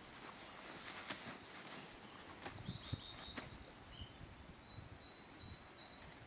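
Wild birds calling faintly outdoors: a few short, high chirps in the middle and again near the end, over a steady background hiss, with scattered light clicks and rustles.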